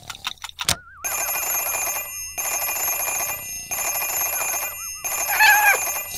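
Fast ticking for a moment, then an alarm clock bell ringing in four bursts of about a second each. A cat meows near the end, over the ringing.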